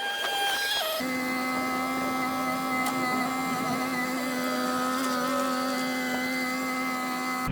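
A small electric motor whining steadily. Its pitch drops a step just before a second in, then holds.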